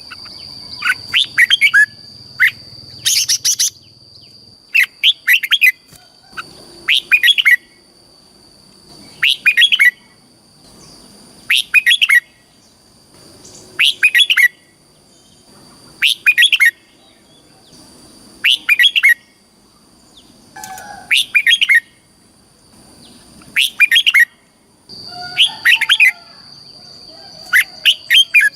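Red-whiskered bulbul singing: short, quick, chirpy song phrases repeated about every two seconds. A thin, steady, high-pitched whine runs underneath and is strongest near the start and again near the end.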